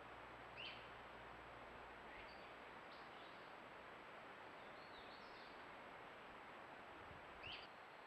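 Faint steady hiss with short, high bird chirps: two clearer ones about half a second in and near the end, and a few fainter ones in between.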